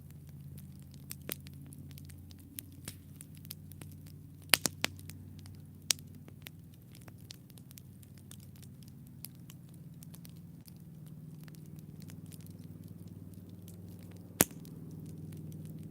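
Wood campfire crackling, with irregular sharp pops: a loud cluster about four and a half seconds in and a single loud pop near the end. A low steady hum runs underneath.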